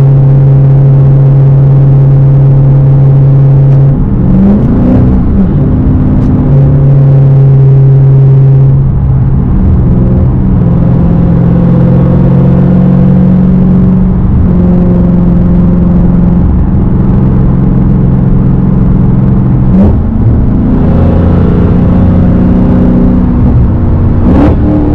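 Dodge Hellcat's supercharged 6.2-litre V8 through a straight-piped exhaust, running loud and steady under way. Its note steps to a new pitch several times, with short rising revs about four seconds in, near twenty seconds and near the end.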